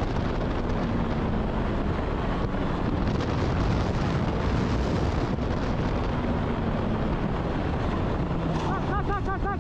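Heavy wind rush on the microphone of a moving motorcycle's camera, steady and loud throughout. A brief wavering cry is heard near the end.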